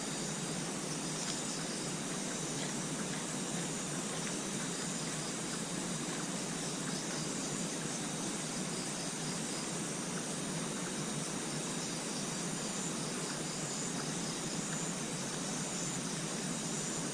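Steady outdoor hiss with insects trilling high and continuously over it; no single event stands out.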